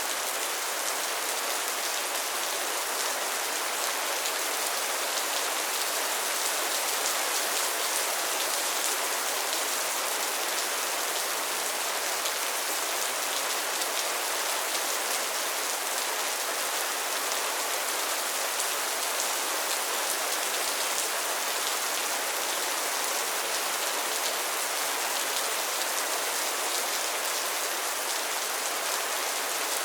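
Steady rain falling on a pond and its lily pads: a dense, even patter of drops, bright and hissy.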